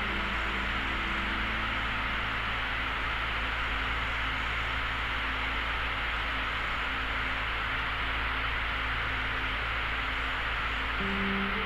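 Steady in-flight noise of a light aircraft in cruise: engine and airflow heard as an even hiss over a low hum.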